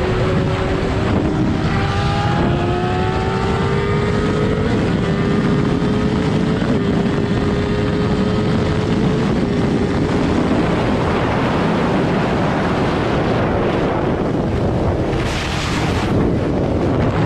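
Motorcycle engine pulling hard, its pitch climbing with brief drops as it shifts up through the gears, under heavy wind noise on the microphone. A short burst of louder rushing noise comes near the end.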